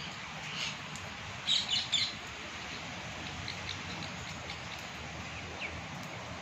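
Parrots calling: a loud cluster of short, high chirps and squawks about a second and a half in, then scattered thin chirps, over a steady background hiss.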